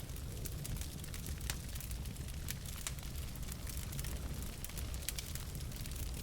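Wood fire burning in a fireplace: logs crackling and popping with many small sharp snaps at irregular moments over a steady low rumble of the flames.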